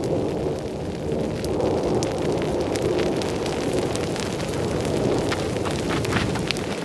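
Continuous rumble from a distant thunderstorm, like nonstop rolls of thunder without any lightning, which the uploader takes for hail roar from a hail shaft. Scattered sharp ticks sound over the rumble.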